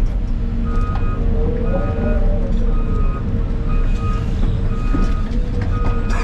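Heavy diesel earthmoving machinery running steadily, heard from inside an excavator cab, with a backup alarm beeping about once a second and a steady whine that swells and dips briefly about two seconds in.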